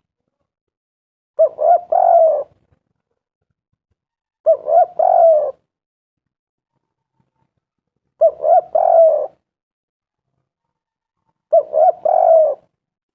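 Spotted dove cooing: four phrases about three seconds apart, each a short first note followed by a quick run of coos.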